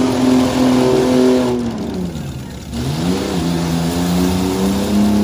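Demolition derby truck engine revving hard, held at high revs. Its pitch drops for about a second midway, then climbs back up and holds.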